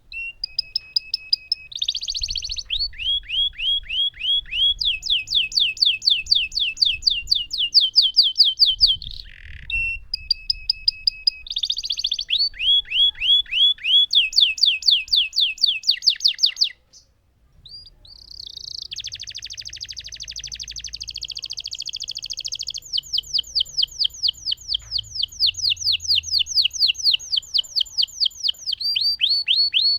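Lemon canary singing long rolling trills: fast runs of repeated high notes, one roll after another, with a short break about two-thirds of the way through.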